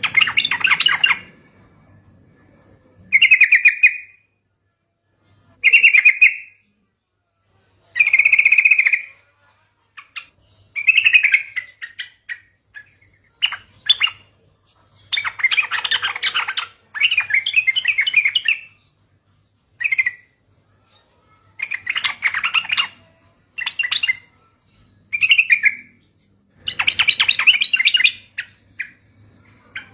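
Yellow-vented bulbul (trucukan) singing: short phrases about a second long repeated every couple of seconds, with longer runs of rapid chattering notes in the second half.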